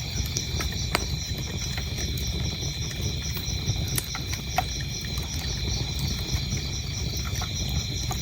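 Wood fire burning in a fireplace, with a steady low rumble and scattered crackles and sharp pops, the loudest about a second in and around four seconds in. Crickets chirp throughout in a high, even, pulsing rhythm.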